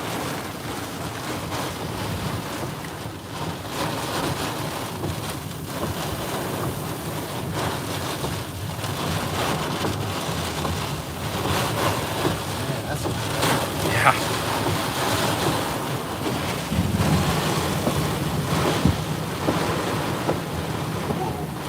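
Severe-thunderstorm wind and wind-driven rain buffeting a truck, heard from inside the cab: a steady heavy rush with scattered knocks against the body, the sharpest about two-thirds of the way through.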